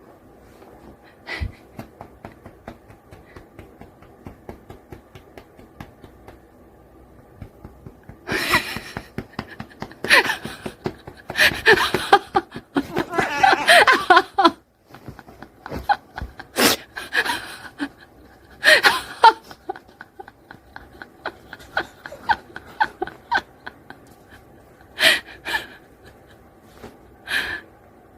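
An angry stray cat hissing again and again in sharp bursts of a second or so, the loudest and longest run through the middle, with quieter short puffs before and after.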